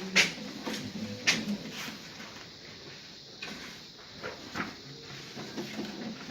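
A few sharp knocks and clicks, the loudest two near the start, over a faint low room murmur.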